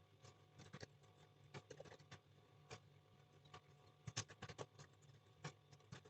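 Faint typing on a computer keyboard: irregular single keystroke clicks, with a quick run of them about four seconds in, over a steady low electrical hum.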